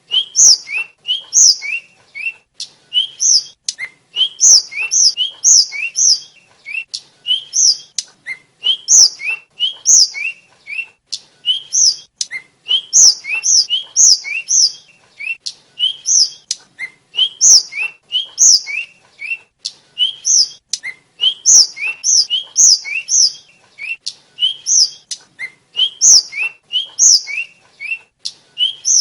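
Tledekan flycatcher singing a fast, continuous chattering song of short, sharply rising whistled notes, alternating lower and higher notes several times a second.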